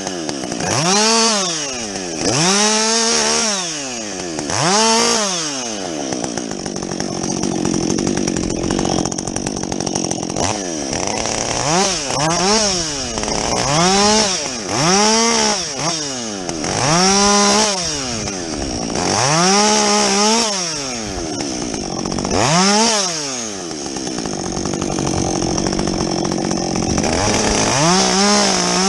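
Muffler-modified Husqvarna 562XP two-stroke chainsaw, repeatedly revved up and back down in quick swells, with two longer stretches held at a steadier, lower pitch.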